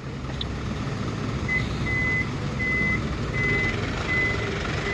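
Six-wheel dump truck backing up: its reverse alarm beeps a steady single-pitch tone over the rumble of the running diesel engine. The beeps start about one and a half seconds in and repeat roughly every three quarters of a second.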